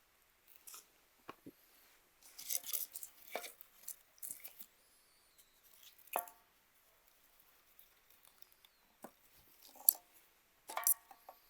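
Quiet, scattered handling sounds: soft rustling, a few light taps and clicks, and two sharper knocks or clinks with a short ring.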